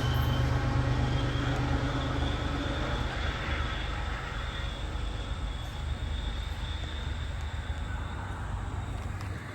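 A train running past and fading away. Its low rumble dies out a few seconds in, and a thin high whine lingers and fades.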